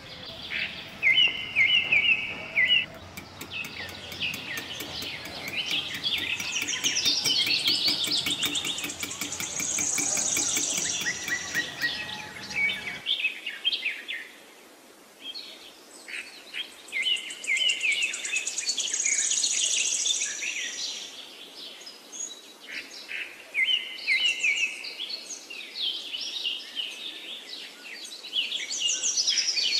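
Small birds chirping and twittering in rapid, repeated high phrases.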